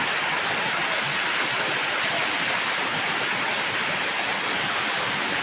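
Steady rushing of a mountain stream over waterfalls and rapids, a constant hiss-like roar of falling water.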